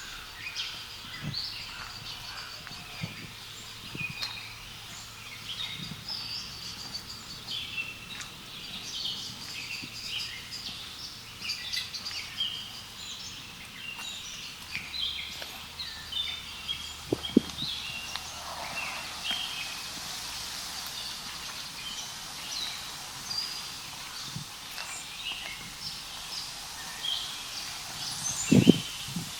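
Several songbirds chirping and singing continuously in short, busy phrases, with a few scattered footsteps thudding on the path, the loudest ones near the end.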